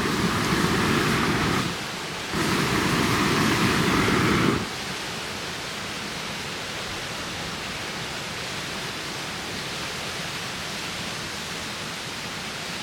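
Strong wind blowing, with two loud gusts in the first few seconds that stop abruptly, then a steady rush.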